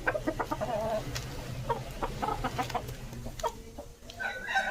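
Aseel chickens clucking: a run of short, sharp clucks, then a longer pitched call near the end.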